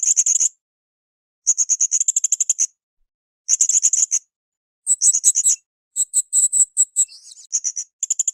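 Blue-crowned hanging parrot (srindit) calling: short bursts of rapid, shrill, high chattering notes, about half a second to a second each, with brief silences between. About halfway through, the notes become higher and more spaced out.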